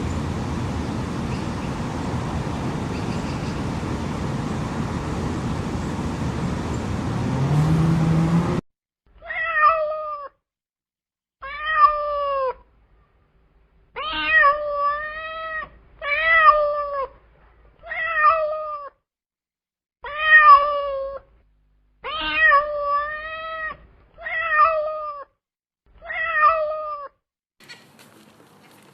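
A domestic cat meowing repeatedly, about ten separate meows a second or two apart. Before them comes a stretch of steady noise that cuts off about nine seconds in.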